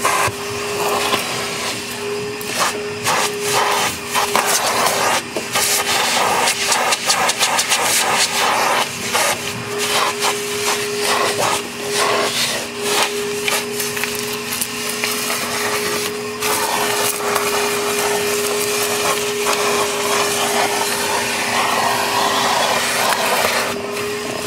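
Metro Vac Vac N' Blo 4.0 hp portable vacuum-blower running with a steady whine and rush of air. Frequent short clicks and knocks are scattered throughout.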